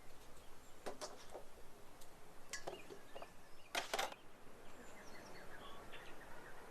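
A few sharp knocks and clicks, the loudest a quick double knock about four seconds in, over steady outdoor background noise with faint bird chirps near the end.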